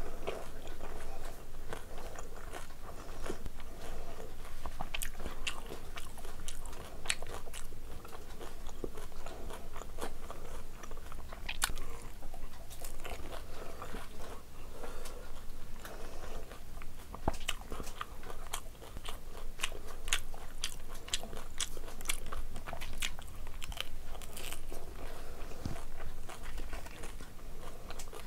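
Close-miked chewing of crisp fried puri shells: a steady run of crunches and sharp crackles.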